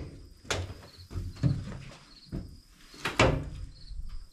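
A handful of separate sharp knocks and clunks, spaced irregularly about a second apart, with no engine or starter running yet.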